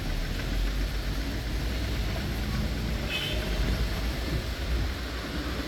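Rainy city traffic heard from a double-decker bus: a steady low engine and road rumble under an even hiss of rain and wet traffic, with a short high beep a little past halfway.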